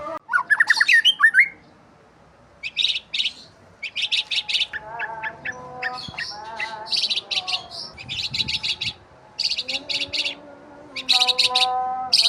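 Songbirds chirping: a few loud rising chirps, then short bursts of rapid high trills repeated about once a second, with a lower, wavering call beneath at times.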